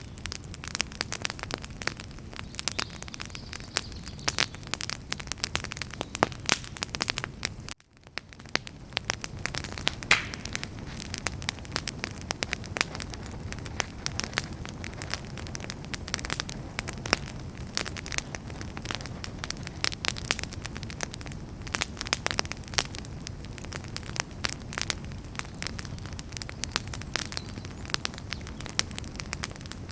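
Wood fire burning, with dense crackles and snapping pops over a steady low rumble of flames. About eight seconds in, the sound cuts out briefly to near silence and then fades back up.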